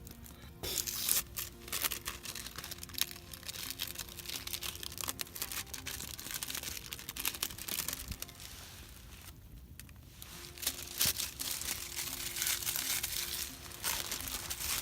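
Crinkling and rustling of packaging being handled, with many sharp little crackles. It pauses for about a second about two-thirds of the way through, then starts again.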